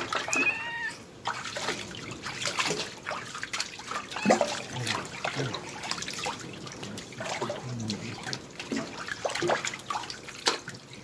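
A kitten meows once in the first second, then water splashes and trickles as the kitten is washed and wiped.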